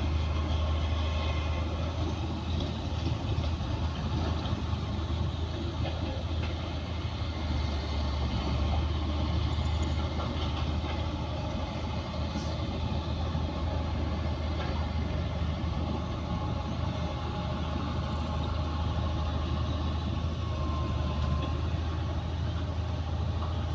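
Bulldozer's heavy diesel engine running steadily, a deep low drone with a rough haze of mechanical noise over it.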